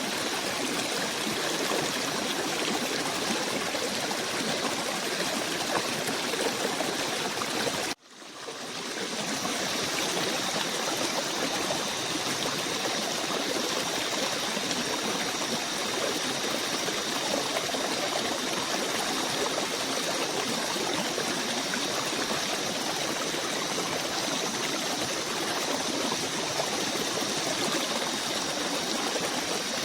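Steady rush of a flowing stream. About eight seconds in the sound cuts out abruptly and fades back up over about a second, as at a loop splice. After that, two faint steady high tones sit above the water.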